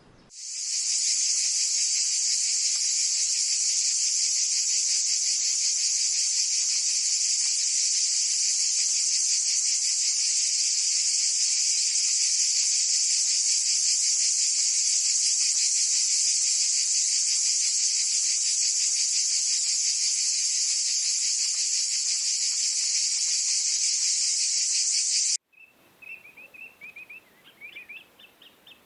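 Loud, steady, high-pitched insect chorus that cuts off abruptly near the end, followed by faint bird chirps.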